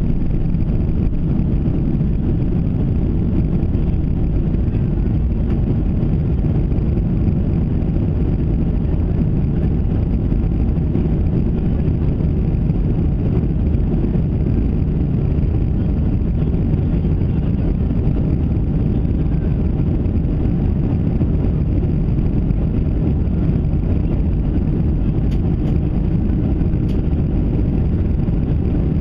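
Cabin noise of a Boeing 737-700 during takeoff: its CFM56-7B jet engines and the rushing air make a loud, steady low rumble that does not change.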